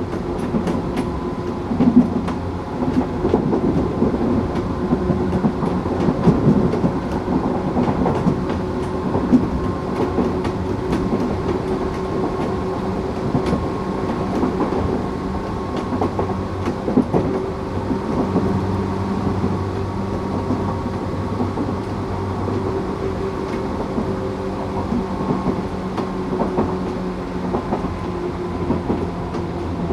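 Tokyu 8500 series electric train with Toyo-built traction motors running along the line: a steady hum with a few level tones, and short clicks of the wheels over rail joints.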